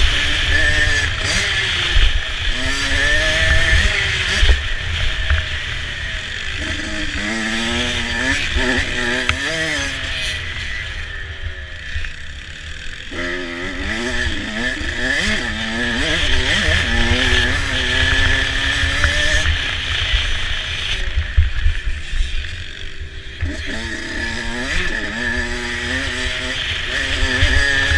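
Motocross bike engine revving up and down as the throttle is worked, its pitch rising and falling over and over and easing off twice, over a heavy low rumble.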